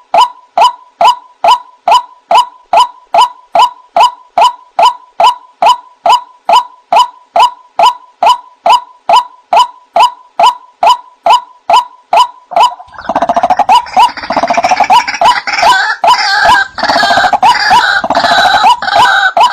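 White-breasted waterhen (ruak-ruak) calling: a steady run of short, even 'kwak' notes, about two or three a second. About thirteen seconds in, a louder, denser bout of harsh overlapping chattering joins over the regular notes.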